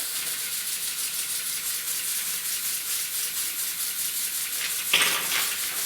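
Small model steam engine running on steam: a steady hiss with rapid, even exhaust puffs, and a brief louder noise about five seconds in.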